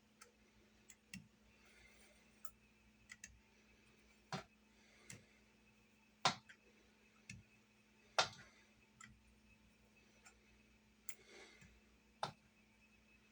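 Faint, irregular clicks and knocks of kitchen utensils against a cutting board and counter while dumpling dough is cut into pieces; the loudest knocks come about four, six, eight and twelve seconds in, over a faint steady hum.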